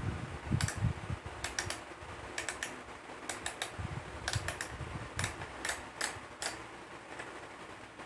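Irregular light clicks and taps with a few soft thuds, as of a plastic toy dump truck being handled and played with.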